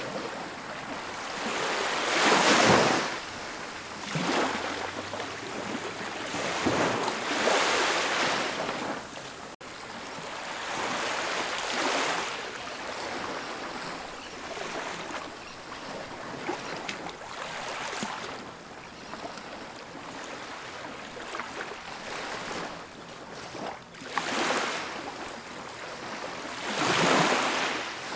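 Ocean waves breaking and washing up a beach, one swell of surf every few seconds.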